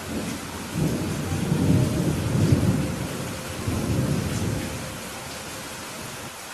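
Steady rain with a rolling rumble of thunder that builds about a second in, swells twice and fades away by about five seconds.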